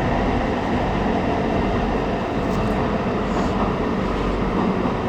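Tyne and Wear Metro train heard from inside the carriage: a steady rumble of the running train as it comes into Gateshead station in the tunnel.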